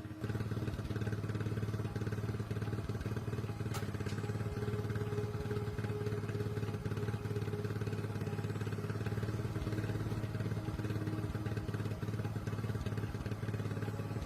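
A 750cc motorcycle engine idling steadily after restoration, with one sharp click about four seconds in.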